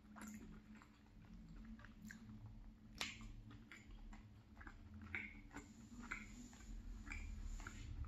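Close-up chewing and soft wet mouth smacks of a person eating a forkful of creamy salmon pie filling, with one sharper click about three seconds in.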